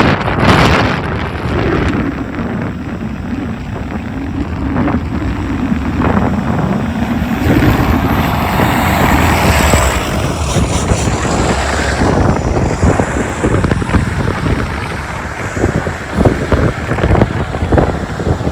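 Strong, gusty wind buffeting the microphone in a snowstorm, with street traffic running underneath.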